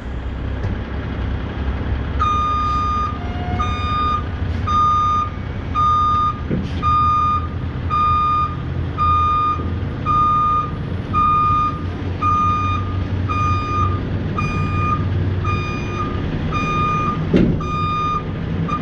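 Back-up alarm beeping about once a second over a running diesel truck engine, as the Peterbilt 579 reverses to slide the flatbed trailer's tandem axles closed. A couple of short knocks sound in between.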